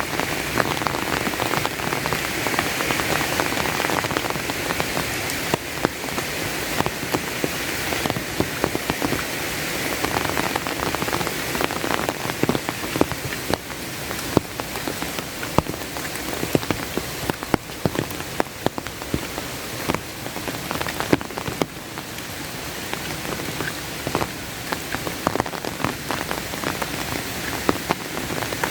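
Steady rain falling, with many sharp individual drops striking close by over a constant hiss.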